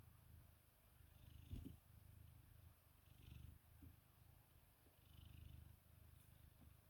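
A cat purring softly, a low rumble that swells and fades in slow cycles with its breathing.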